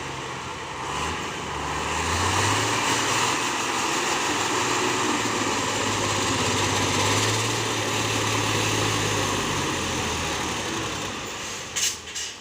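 Diesel truck engine pulling under load, its pitch rising about two seconds in and holding steady, then easing off. Near the end come short, sharp hisses of the air brakes.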